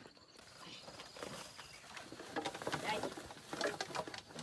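Piglets grunting and squeaking in short, irregular calls with rustling, growing busier and louder about halfway through.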